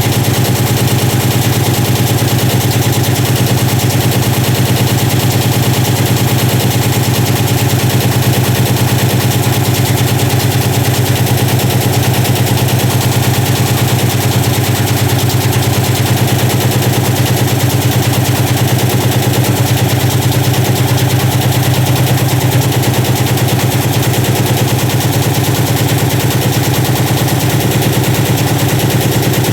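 Washing machine running with a stone loose in its drum: a steady, loud, rapid clatter of the stone hitting the drum over the machine's constant motor hum.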